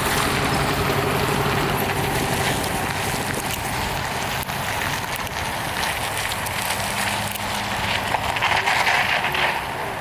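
Freight train rolling past at a grade crossing: a steady rumble and wheel clatter under a diesel locomotive's low hum, with wind on the microphone. A louder patch rises briefly about eight seconds in.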